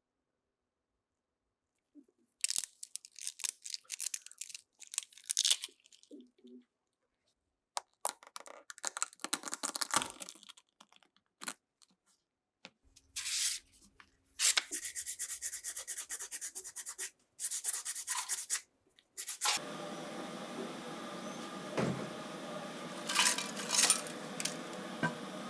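Irregular bursts of scraping and rubbing strokes on a small part, the work of cleaning down a rusty model truck, with a fast run of repeated strokes in the middle. About three-quarters of the way in, a steady spray hiss starts and carries on.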